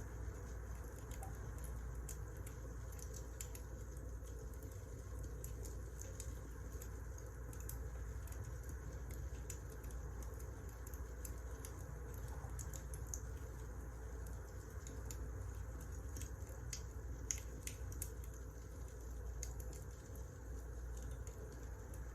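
Wood fire crackling: scattered sharp crackles over a steady low rumble of burning firewood.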